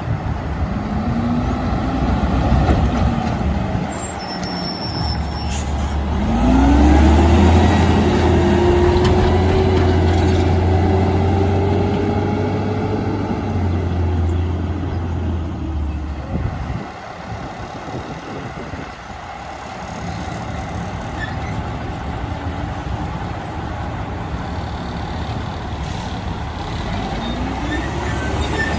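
Heavy diesel garbage trucks pulling away, each engine rising in pitch as it accelerates over a deep rumble. The loudest truck pulls away about six seconds in and runs on for several seconds. Another starts to accelerate near the end.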